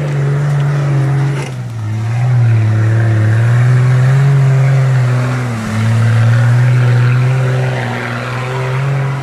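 Jeep CJ6's engine running hard, its revs rising and falling, with a drop in pitch about a second and a half in and a brief sharp dip a little after five and a half seconds.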